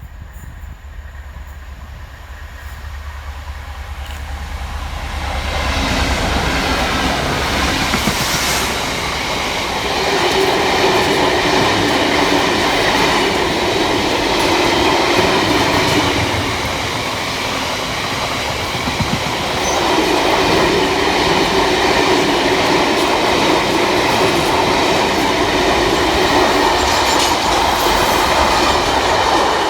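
Two Class 66 diesel-electric locomotives, running as a pair, pass through with a freight train of wagons. A low engine rumble builds over the first six seconds into loud, sustained train noise that swells and eases as the wagons roll by.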